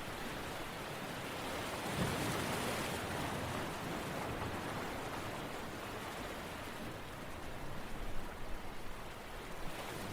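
Steady rushing water noise of an ambient relaxation recording. It swells about two seconds in and rises and falls briefly near the end.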